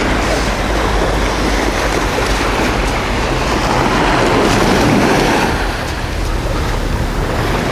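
Sea surf washing on a beach, with wind buffeting the microphone: a steady wash of noise with a low rumble underneath.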